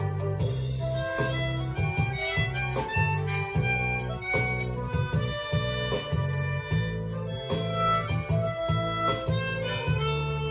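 Harmonica playing a slow melody line of held notes over a recorded backing track with a regular low bass pulse.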